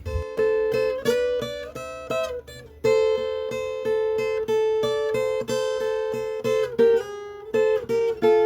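Background music: an acoustic guitar plucking a steady run of notes, each one ringing and fading.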